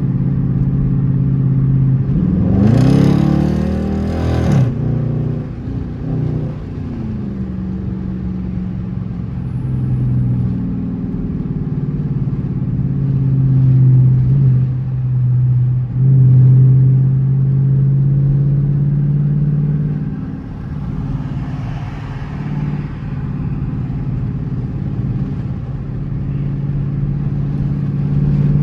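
Dodge Charger R/T's V8 under hard acceleration. The revs climb steeply about two seconds in, then drop away and settle into a steady drone at cruise, swelling again about halfway through.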